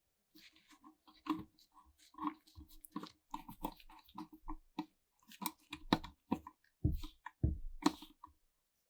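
Irregular run of small clicks and knocks from parts being handled, with two heavier thumps about seven seconds in.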